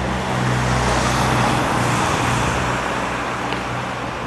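A large vehicle passing close, with a steady engine hum under noise that swells about a second and a half in and eases off toward the end.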